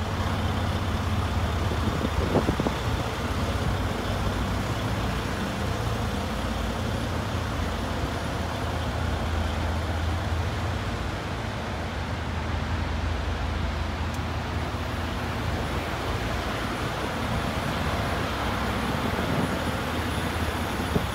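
Semi truck's diesel engine running steadily with a deep, even hum.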